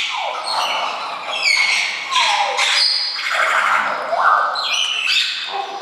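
A flock of birds calling, many overlapping squawks and calls that glide up and down in pitch.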